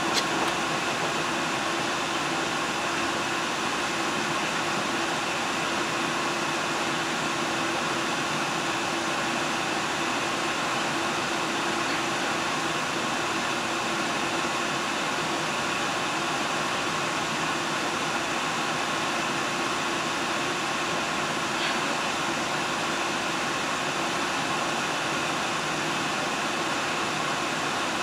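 Steady hum and rush of a diesel train, heard from inside the passenger car, with no distinct rail clicks.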